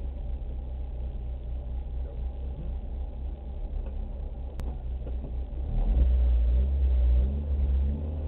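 Rally car engine idling, heard from inside the cabin while the car stands still. From about six seconds in it is revved up, louder, with the pitch rising and falling, then eases back.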